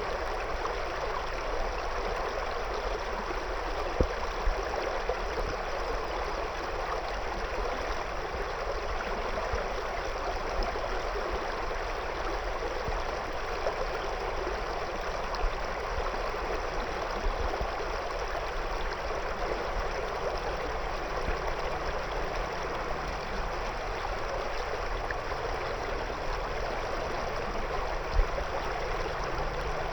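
River water flowing over and around stones, a steady rushing and burbling. A few brief louder clicks stand out, about four seconds in and near the end.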